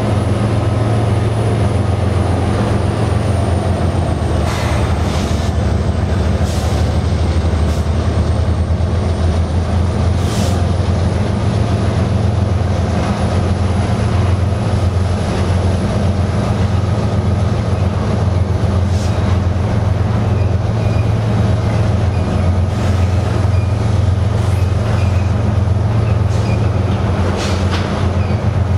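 Loaded crude-oil tank cars of a long freight train rolling past: a steady, loud rumble of steel wheels on rail, with a few brief sharp wheel noises scattered through it.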